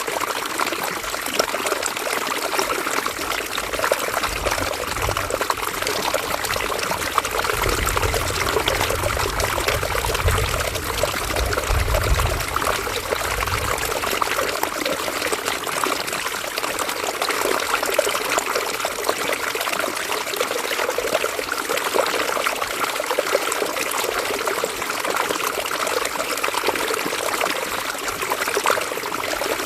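River water flowing and trickling steadily over stones. A low rumble sits under it for about ten seconds near the middle.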